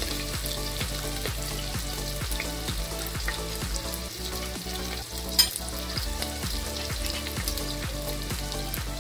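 Chopped onions, green chillies and a bay leaf sizzling in hot oil in a pressure cooker, crackling steadily, with a single sharp clink about five seconds in. Soft background music with a steady beat runs underneath.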